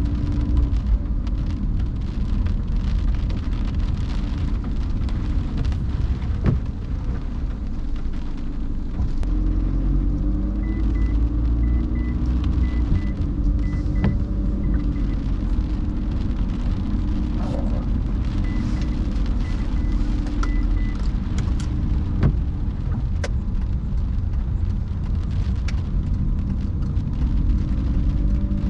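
A car driving on wet roads in the rain: a steady low rumble of engine and tyres on the wet road, with scattered sharp taps of rain hitting the car. Two short runs of evenly spaced faint ticks come through around the middle.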